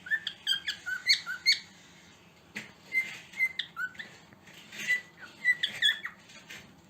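Cockatiel chirping: short, squeaky whistled chirps, some sliding up or down in pitch, in three quick runs with short pauses between.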